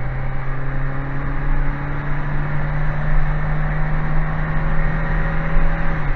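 Citroën Saxo petrol engine pulling on the road, its note climbing slowly and then dropping to a lower pitch right at the end, as at a gear change.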